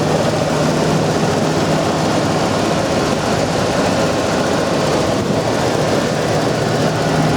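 1996 Ford F250 pickup's engine idling steadily, with no tapping or knocking heard.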